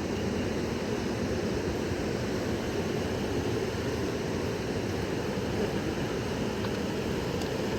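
Fast river water rushing steadily, an even noise with no breaks.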